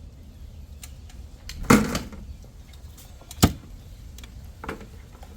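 Digging tool striking down into a post hole: two loud, sharp strikes about a second and a half apart and a fainter one near the end. It seems to be hitting a buried tree stump.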